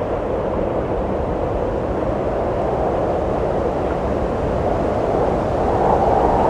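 Steady wind blowing and gusting, a rushing noise with a low rumble under it, swelling a little louder and higher near the end.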